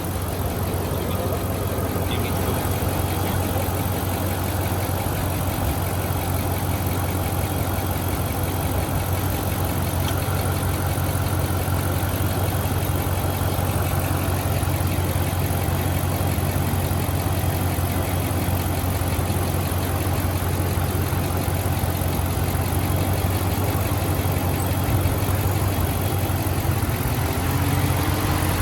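Dodge Ram's Hemi V8 idling steadily while it warms up, its lifter noise much better. A faint rising whine comes in near the end.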